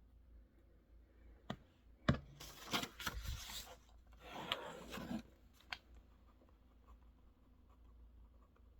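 Small handling sounds at a desk: two clicks, then two stretches of rubbing and rustling lasting about a second each, and one more click.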